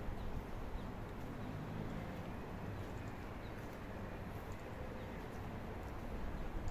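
Outdoor park ambience: a steady low rumble of wind on the microphone with faint, scattered bird chirps.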